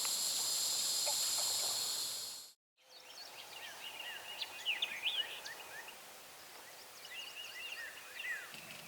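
A steady, high insect chorus, cut off suddenly about two and a half seconds in. Birds then chirp and call in quick rising and falling notes.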